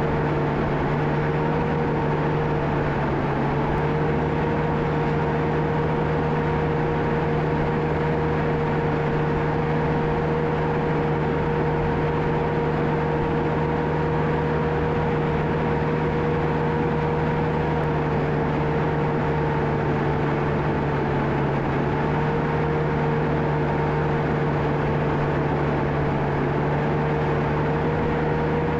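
John Deere 650K crawler dozer running steadily: a diesel drone with a constant high whine over it. The pitch sags briefly a couple of times.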